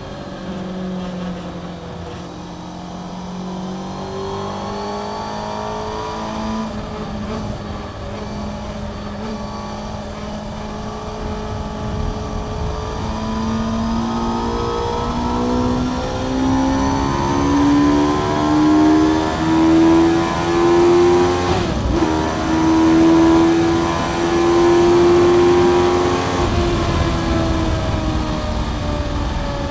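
Onboard sound of a 2011 Honda CBR600F's inline-four engine through a Mivv aftermarket exhaust at track speed. The engine note drops at the start, runs steady for a while, then climbs to high revs with a brief break partway, holds high, and falls away near the end as the revs come down.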